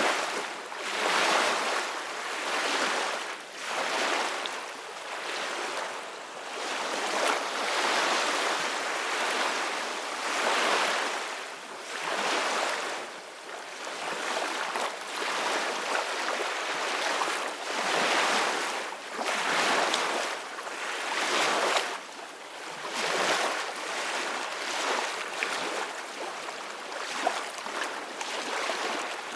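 Ocean waves washing in one after another, the hiss of surf swelling and fading every second or two.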